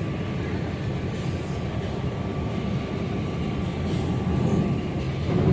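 PATCO rapid-transit train heard from inside the car while it runs: a steady low rumble of wheels on rails with a faint steady hum above it.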